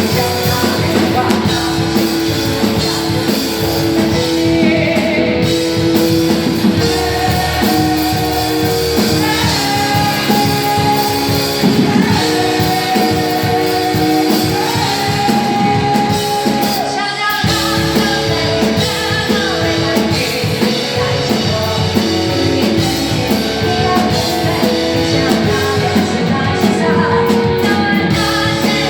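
Rock band playing live, with a singer over guitar and drums in a steady beat.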